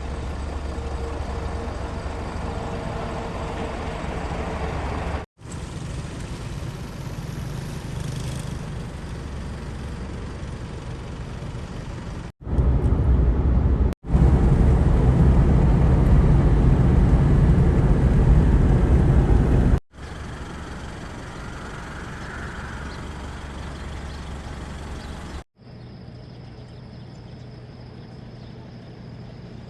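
Steady road and wind noise from a moving car, in several short clips joined by abrupt cuts. The loudest stretch, in the middle, carries a heavy low rumble.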